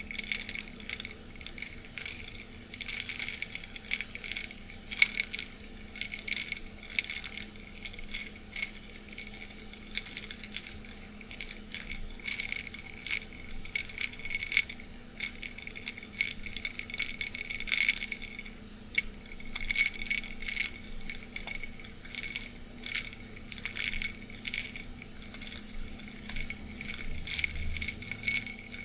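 Ice cubes clinking against the sides of a glass of ice water as it is swirled: a dense, irregular run of sharp glassy clinks with a bright ring.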